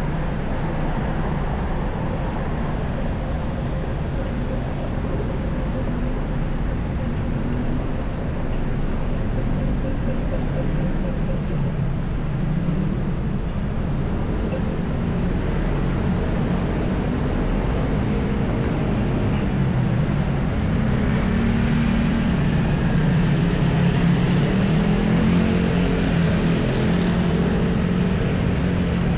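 Road traffic: vehicle engines running steadily, a continuous low rumble that grows a little louder about two-thirds of the way in as a heavier engine draws near.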